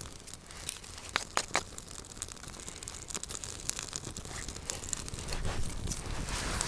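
Small campfire of damp wood crackling, with irregular sharp pops and snaps over a soft hiss. The hiss grows near the end.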